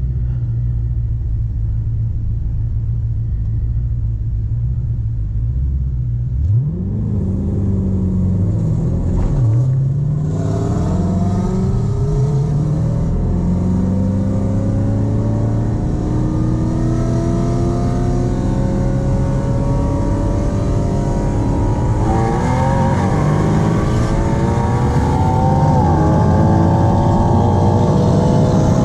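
V8 drag car idling with a low rumble, then launching about six and a half seconds in and accelerating hard down the track. The engine pitch climbs, drops back at each gear change and climbs again.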